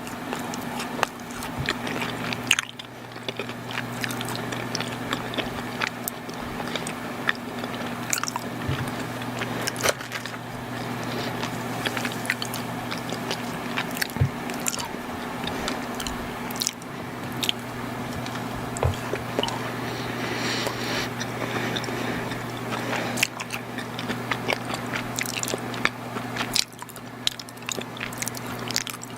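Close-miked chewing of soft, chewy chocolate sweets, heard as bites and mouth sounds with many small irregular clicks. A steady low hum runs underneath.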